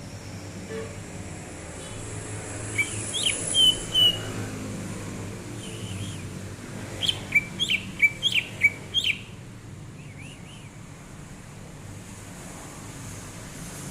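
A cucak ijo (green leafbird) singing: a few sharp whistled notes about three seconds in, then a quick run of short chirping notes in the middle, with fainter notes trailing after.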